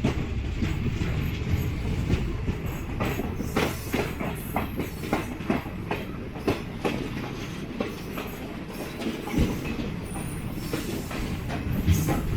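Diesel multiple unit (DEMU) train running into a station, a steady low rumble with irregular clicks of the wheels over rail joints and points, and a brief high squeal about ten seconds in.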